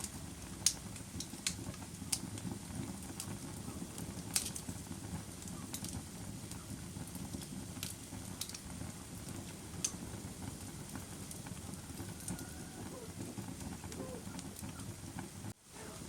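Crackling fire burning: a steady low rush with irregular sharp pops and crackles, several louder ones in the first half. The sound cuts out for a moment near the end.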